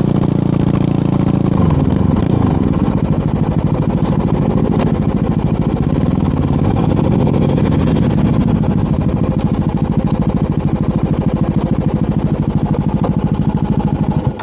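Motorcycle engine and exhaust running under way. The engine pitch drops over the first couple of seconds as the bike slows, then holds steady and low.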